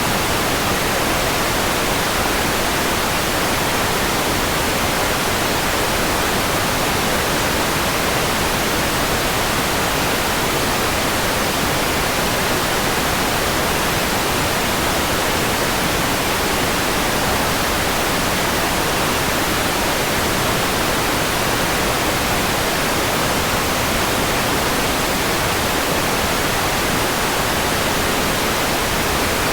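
Steady, unchanging white noise: an even hiss spread across all frequencies.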